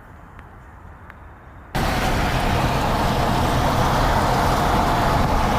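Quiet at first, then about two seconds in a loud, steady rush of floodwater pouring over an overflowing weir cuts in abruptly.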